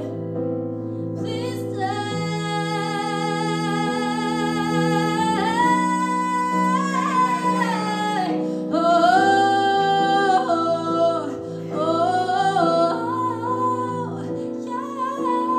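A woman singing live with guitar accompaniment: long held notes that slide between pitches over steady chords, with no clear words.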